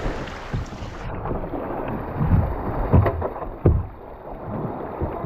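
Wind buffeting the microphone over water sloshing around a Laser sailing dinghy, with two sharp knocks past the middle.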